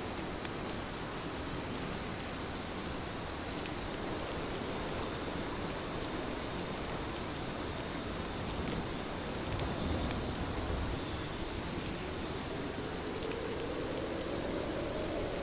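Heavy rain pouring steadily, a dense, even patter of drops.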